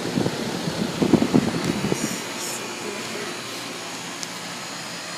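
Central air conditioner's outdoor condensing unit running with a steady whooshing hum. Irregular low knocks and rustles fill the first couple of seconds.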